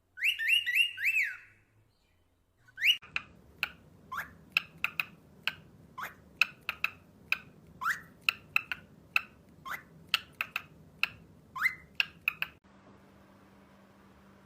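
Cockatiel calling: a quick run of four rising whistled notes, then after a short pause a long series of short, sharp chirps, about two a second, that stops near the end.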